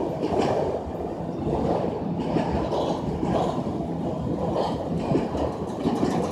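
Norfolk Southern freight train rolling by: a steady rumble of wheels on the rails with faint, irregular clicks over rail joints.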